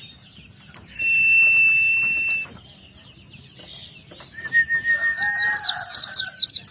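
A songbird sings a long, steady high whistle about a second in. From about five seconds in it launches into a fast, loud run of short downward-sweeping notes, roughly seven a second.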